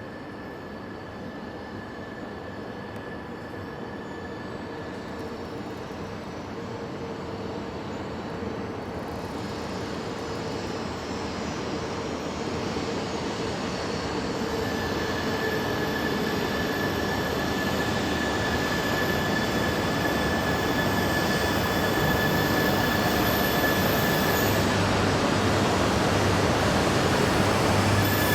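A Shinkansen train drawing nearer, its rumble growing steadily louder throughout, with a steady high whine over it.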